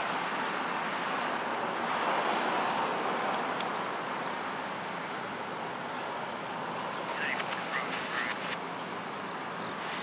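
Distant freight train running, a steady rumble that swells a little about two seconds in and then eases. Small birds chirp above it, and a run of short calls starts about seven seconds in.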